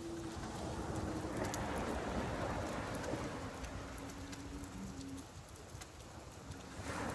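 Rain falling steadily, with scattered drop ticks and a low humming tone underneath that steps down in pitch and fades out after about five seconds.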